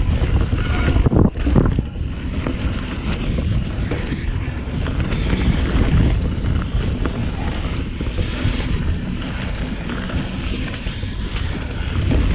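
Wind rushing over a chest-mounted action camera's microphone as a mountain bike rolls down a dirt trail. Tyres and frame clatter over rough ground, with many small knocks and rattles throughout.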